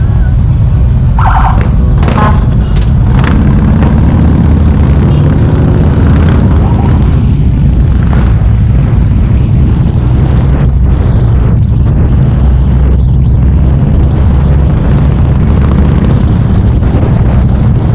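Harley-Davidson motorcycle engine running steadily under way, a loud low rumble, with wind noise on the microphone.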